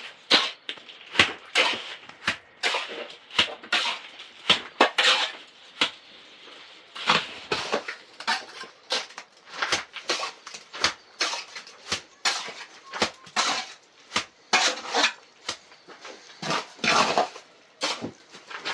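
A run of irregular sharp clinks and knocks, hard objects striking one another about once or twice a second.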